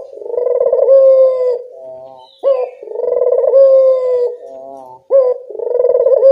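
A local puter dove cooing its call about every two and a half seconds, three times. Each call is a short rising note, then a long held coo, then a shorter, softer coo. It is a lure call meant to get other puter doves to answer.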